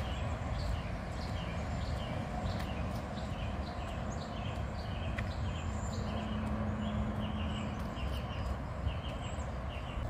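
Small birds chirping in quick repeated calls over a steady low rumble.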